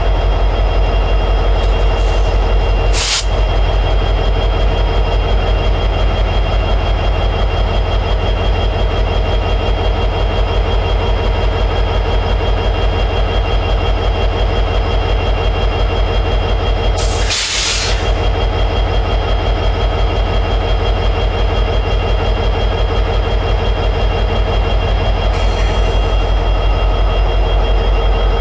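EMD 710G3B two-stroke diesel prime mover of an SD60-series locomotive running steadily in high idle. Short bursts of hiss break through about 3 seconds and 17 seconds in.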